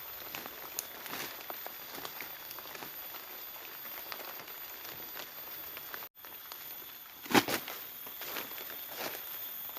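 Scattered clicks and knocks over a steady hiss, with one loud knock about seven seconds in followed by a few smaller ones.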